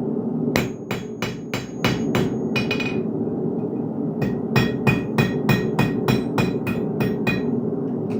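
Blacksmith's hammer striking hot iron on an anvil while forging a hook: two runs of quick, ringing blows, about four a second, with a pause of about a second between them, over a steady low hum.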